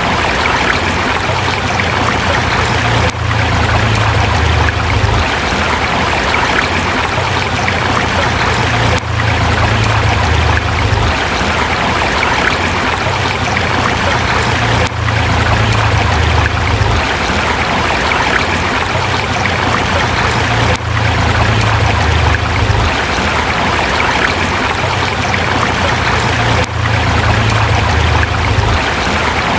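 A forest river flowing over rocks: a steady, loud rush of water with a brief dip in level about every six seconds.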